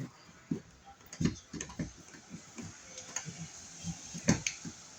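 Irregular small clicks and knocks of hand tools and screw hardware being handled while an electrical outlet is fitted, a few sharper taps standing out.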